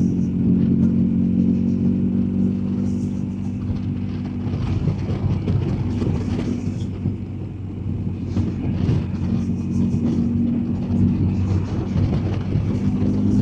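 BMW R1250GS Adventure's boxer-twin engine running at a steady pitch under way, with road and wind noise. About five seconds in, the engine tone becomes rough and uneven for a few seconds, then settles back to steady.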